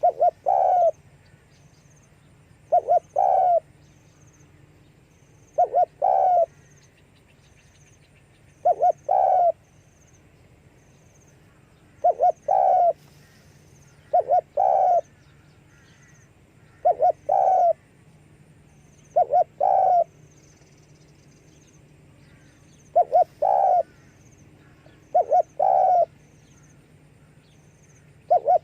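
Spotted dove calling: a short, clipped coo of two or three notes, repeated about every two to three seconds, over a faint steady low hum.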